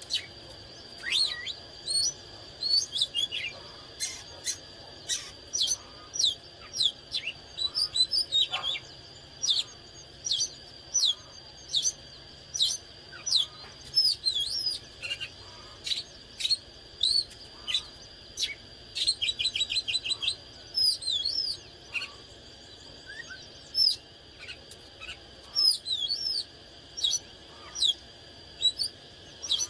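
Oriental magpie-robin singing: a long string of short, clear whistled notes with sharp upward and downward sweeps, broken by a quick trill of rapidly repeated notes about two-thirds of the way through.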